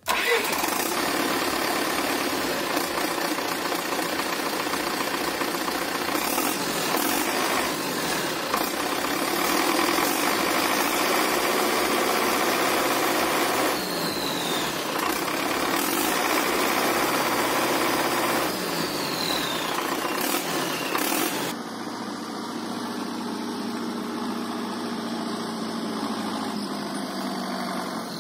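MTZ-80 tractor's turbocharged diesel engine running, with a high whistle that twice falls in pitch. About three quarters of the way through, it drops to a quieter, steadier run.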